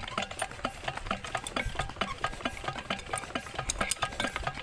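Old 16-horsepower Petter diesel engine running, with a quick, even knocking beat of several strokes a second.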